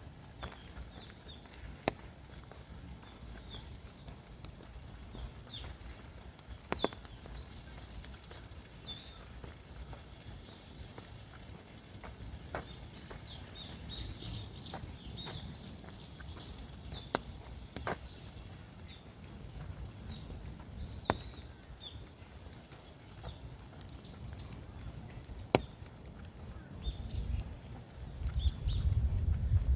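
Small forest birds chirping in short high calls over a low rumble of wind on the microphone, with scattered sharp clicks; the rumble grows louder near the end.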